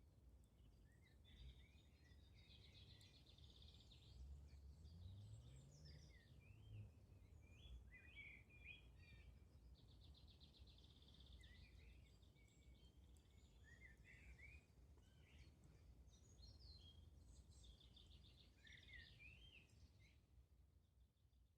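Faint songbirds singing in woodland, with several chirps and a few fast trills, over a low background rumble.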